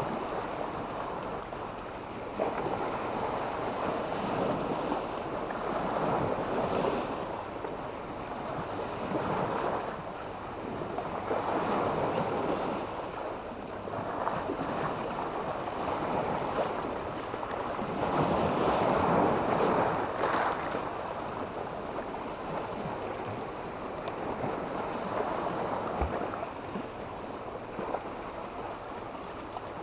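Small sea waves breaking and washing up a beach of sand and stones. The noise swells and ebbs every few seconds, with the biggest swell about eighteen to twenty seconds in, and some wind on the microphone.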